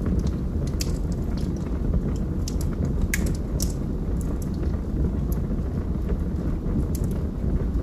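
Log fire burning in a fireplace: a steady low rumble of the flames with scattered sharp crackles and pops from the burning logs, the loudest pop about three seconds in.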